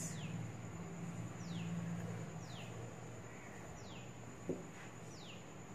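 A bird calling repeatedly in the background, a short falling chirp about once a second, over a steady low hum, with one light tap about four and a half seconds in.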